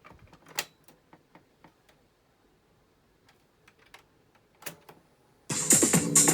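A run of small, sharp mechanical clicks from a Panasonic RX-FT590 boombox's buttons and switches being worked. About five and a half seconds in, loud music with a beat starts abruptly from its speakers.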